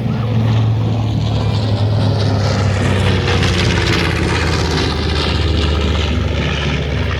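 B-25 Mitchell bomber's twin Wright R-2600 radial engines running steadily as it flies past, the sound swelling to its loudest about three to four seconds in and then easing off.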